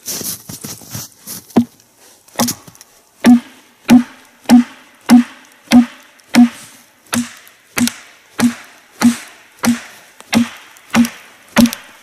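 Wooden wedges being driven into the crack of a log to split it. There are a few scattered knocks at first, then a steady run of evenly paced blows, about one and a half a second, each a sharp knock.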